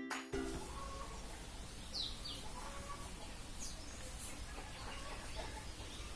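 Quiet outdoor background with a steady low hum and a few faint bird chirps, two short curved chirps about two seconds in.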